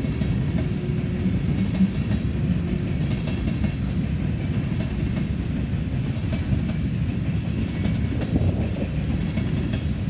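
Empty coal hopper cars of a long freight train rolling past, a steady low rumble with scattered clicks and clanks from the wheels and cars.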